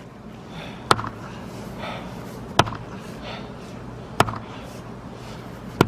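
Axe striking a firewood log four times, sharp blows about a second and a half apart, on a tough log that is not yet splitting.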